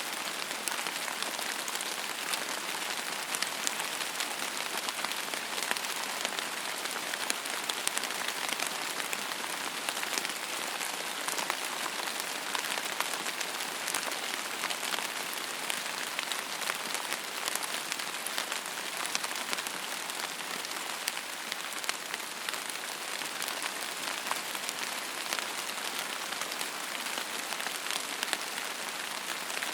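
Steady rain falling on a surface, an even hiss speckled with many small drop ticks.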